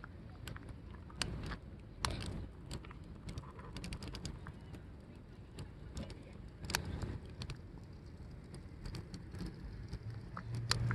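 Wood fire crackling in a steel 18-litre-can fire pit: irregular sharp snaps and pops over a low, steady rumble.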